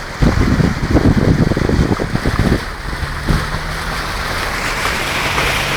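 Wind buffeting the microphone in gusts. From about three seconds in, a steady engine hum with a constant low tone takes over.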